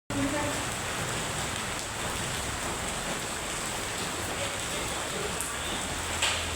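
Heavy rain falling steadily, an even hiss with scattered drop ticks and one brief louder knock near the end.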